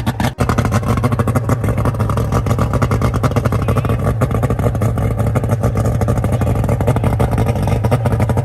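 Two-stroke outboard boat motor running, just cranked with the motor tilted up and out of the water; it stumbles briefly near the start, then runs steadily.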